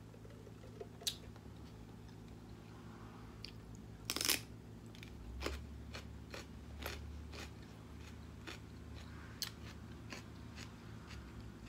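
Crunchy chewing of raw celery topped with chicken salad: one loud crunch about four seconds in, then a run of crisp crunches as it is chewed.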